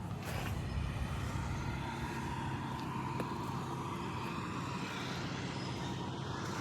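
John Deere 5095M tractor's diesel engine running steadily at an even speed.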